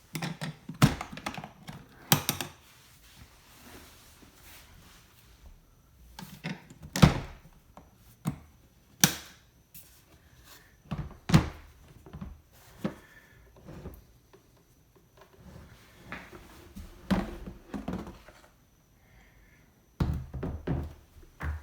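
Hard plastic parts of an insulated beehive being opened and handled. Irregular knocks and clunks come every second or few seconds with quiet gaps between, and a quick cluster of knocks comes near the end.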